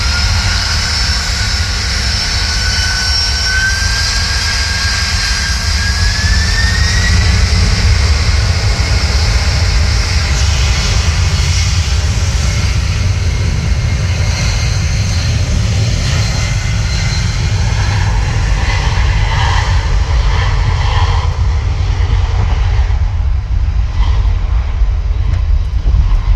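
Jet aircraft engines running, a high whine that climbs in pitch over the first several seconds and then fades into a loud, steady low rumble.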